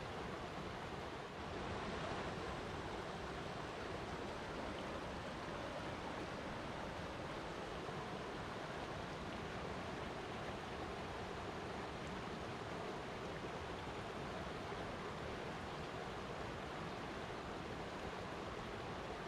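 Flowing water rushing steadily, an even hiss of running water with no pauses.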